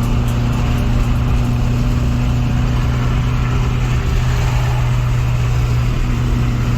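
Car engine running at a steady, unchanging speed, a loud constant hum.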